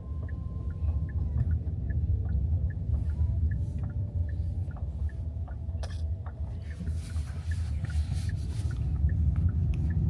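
Steady low rumble with faint, evenly spaced ticks about three a second. A sharp click comes about six seconds in, followed by a hiss lasting about two seconds.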